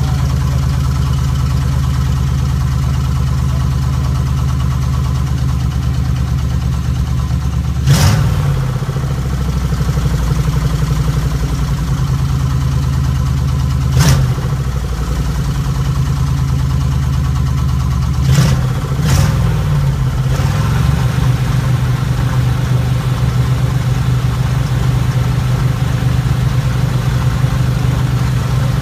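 1972 Dodge B200 van's 318 V8 idling steadily through a new exhaust with Thrush mufflers, blipped on the throttle four times: once about a third of the way in, once about halfway, and twice in quick succession about two thirds of the way through.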